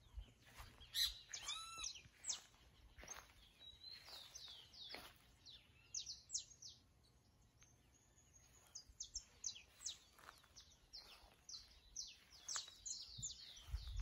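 Songbirds chirping and calling, many short, high chirps from several birds overlapping, with the loudest call about a second in.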